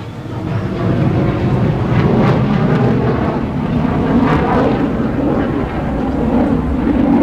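Sightseeing tram running: a loud, steady rumble that builds over the first second as it pulls away.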